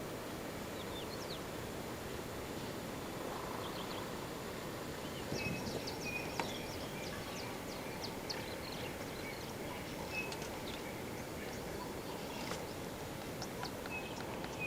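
Small birds chirping in short, high calls, thickest from about halfway on, over a steady outdoor hiss.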